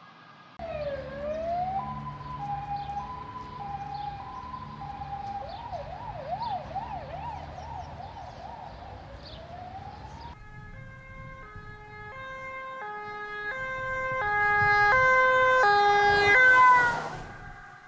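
Ambulance sirens. The first starts with a swoop, runs a two-tone hi-lo for a few seconds, switches to a fast yelp of quick up-and-down sweeps, then ends on a slow rising wail over a low rumble. About ten seconds in comes a different two-tone hi-lo siren that grows steadily louder, dips in pitch as the vehicle passes, and fades away.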